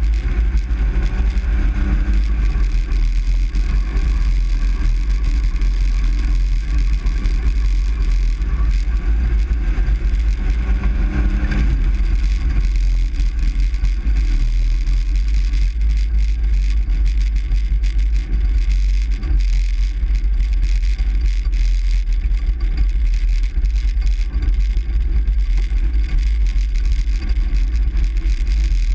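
Steady low rumble of a truck on the move, heard from inside the cab: engine and road noise with no pauses.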